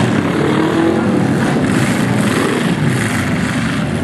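Several demolition derby cars' engines running and revving together, a loud, steady mix of engine noise.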